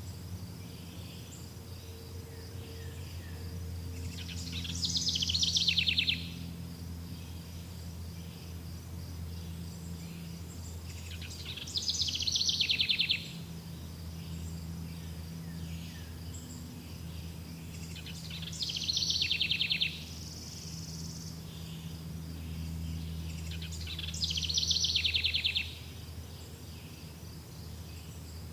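A songbird sings the same short, fast trilled phrase four times, about every seven seconds, each phrase growing louder and then stopping abruptly. Insects chirr steadily underneath.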